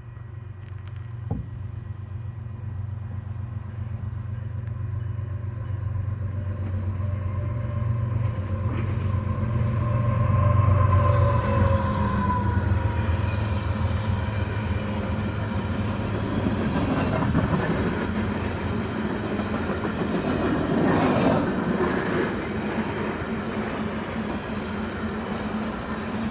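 Canadian Pacific diesel freight train passing: the locomotive engine hum grows louder as it approaches and drops in pitch as it goes by about ten seconds in. Then the cars rumble and clatter past on the rails, swelling again a little past the middle.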